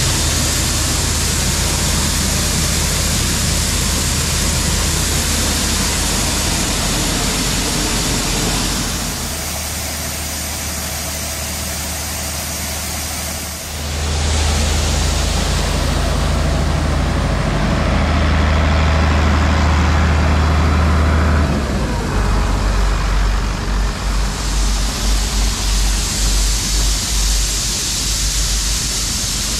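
Heavy diesel farm machinery running steadily with a low engine hum. It drops quieter about nine seconds in, comes back louder around fourteen seconds, and changes again a few seconds past twenty into a pulsing low rumble.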